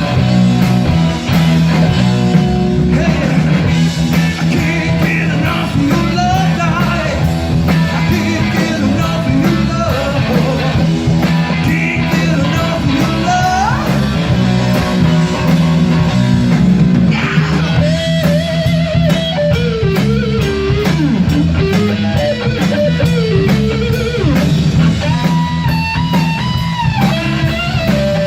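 A 1960 Gibson Les Paul Standard electric guitar playing a rock lead with string bends over a full band backing track.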